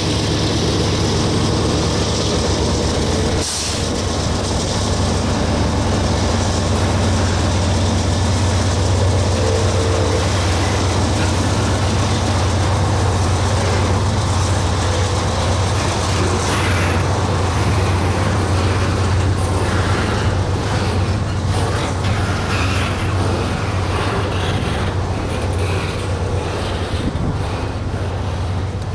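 Union Pacific freight train passing: a steady low diesel locomotive hum under the rumble and scattered clicks of rail cars rolling over the track.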